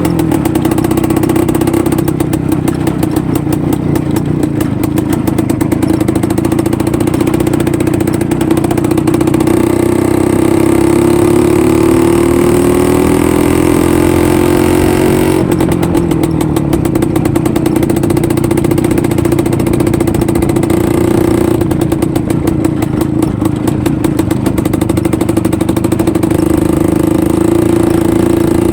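IZh-49 motorcycle's single-cylinder two-stroke engine running under way. Its note climbs for several seconds about a third of the way in, drops back suddenly about halfway through, then holds steady.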